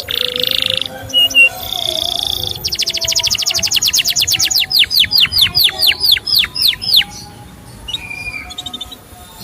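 Canary singing: buzzy notes, then a fast trill of rapidly repeated notes, then a run of loud down-slurred whistled notes about four a second, ending in softer calls.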